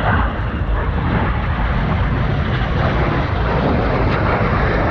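Red Arrows BAE Hawk T1 jets flying over, a loud, steady jet roar.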